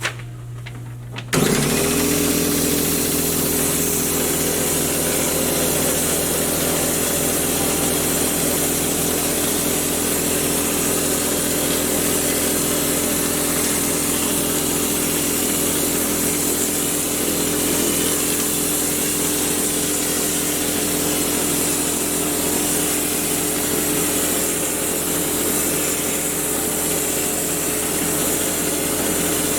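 Drywall texture-spraying rig starts about a second in and runs steadily: a motor's even hum under a loud, continuous hiss of air and spray as texture is sprayed onto the wall.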